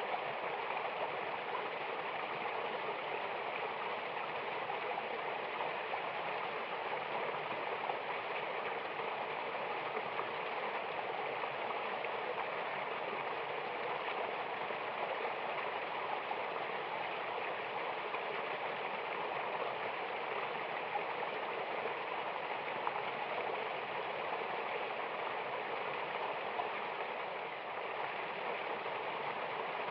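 Mountain river and waterfall flowing in a steady, unbroken rush of water.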